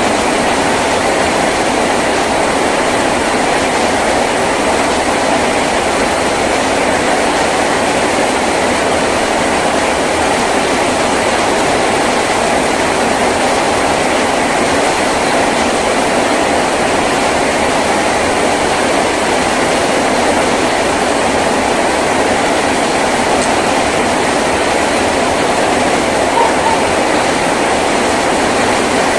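Heavy rain falling steadily on a tin roof, a dense, even hiss and patter that holds at one level throughout.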